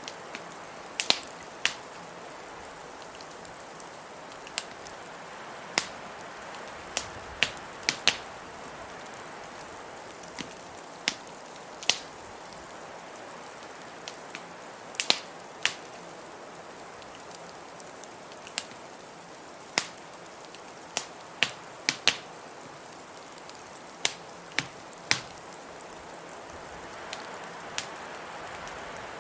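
Wood fire in a fireplace crackling, with irregular sharp pops every second or so, over a steady hiss of blizzard wind.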